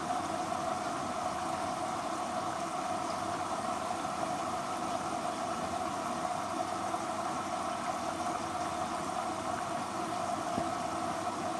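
Hoover H-Wash & Dry 500 14 kg washer-dryer running steadily early in its 30 °C pre-wash, loaded with 13 kg of laundry.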